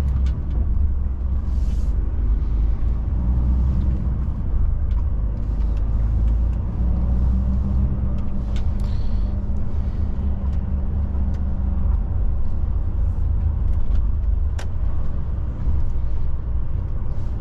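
DAF truck's diesel engine and road noise heard from inside the cab while driving: a steady low rumble, with a faint steady hum joining for a few seconds near the middle and a few scattered light clicks.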